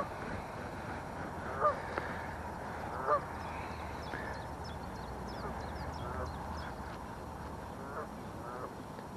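Waterfowl calling: a series of short, pitched honking calls repeated every second or so, the loudest about a second and a half and three seconds in, with faint small-bird chirps higher up.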